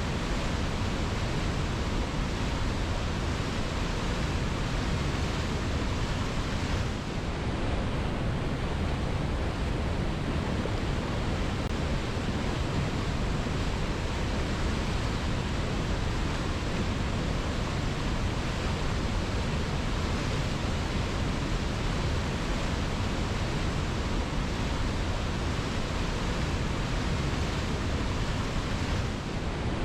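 Waterfall: a steady, dense rush of falling water, unbroken and with no other sounds.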